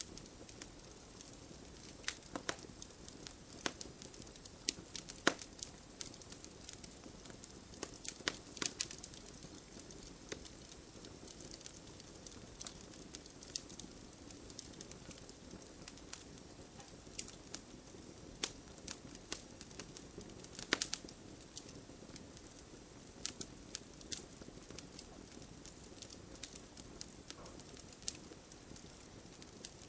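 Wood fire in a fireplace crackling, with a low steady hiss and frequent irregular sharp pops; one pop a little past five seconds and one about twenty seconds in stand out.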